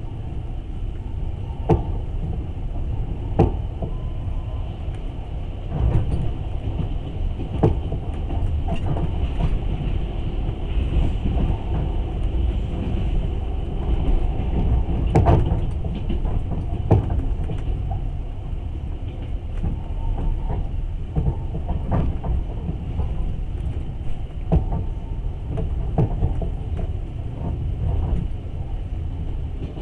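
Long-distance passenger train running on the rails, heard from aboard: a steady low rumble with irregular sharp knocks every second or few.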